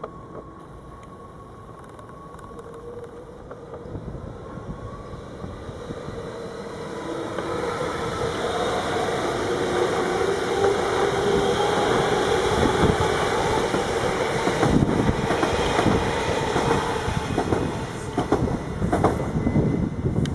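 A train coming into and through the station, growing steadily louder over about eight seconds, with a few steady tones running through its noise. In the last few seconds its wheels click over rail joints.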